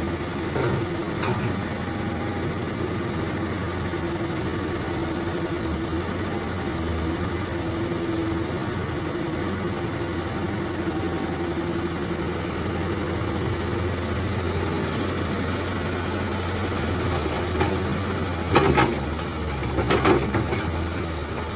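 Hino truck's diesel engine idling steadily, with a couple of short, louder noises near the end.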